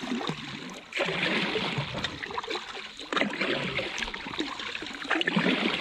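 Kayak paddle strokes in river water: the blade splashes in and water trickles off it. Fresh surges of splashing start about a second in and again just after three seconds.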